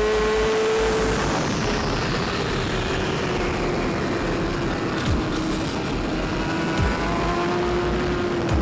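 Superbike's inline-four engine held at high revs, a steady high note that sags slowly, over heavy wind rush.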